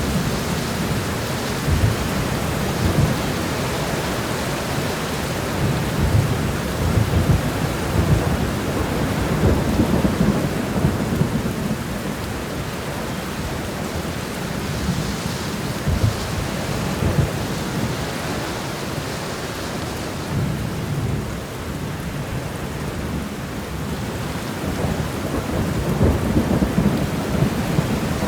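Steady rain shower with a low rumble of thunder that swells and eases underneath it.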